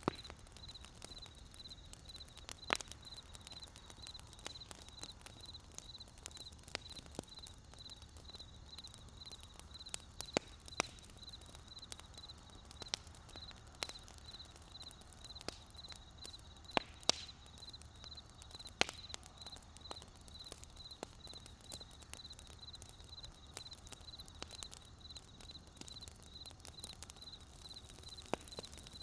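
Wood fire crackling, with sharp pops at irregular intervals over a low, steady hiss. The loudest pops come a few seconds in and about halfway through. A faint, high chirp repeats evenly in the background.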